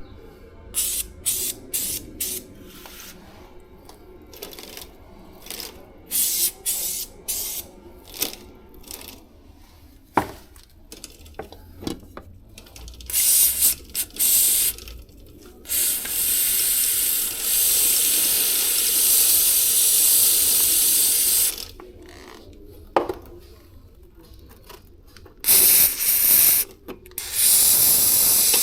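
Liquid sprayed from a sprayer nozzle while a bicycle chain is being cleaned. First comes a quick run of short squirts, then a continuous spray of about five seconds about halfway through, then a few more squirts and steady spraying near the end.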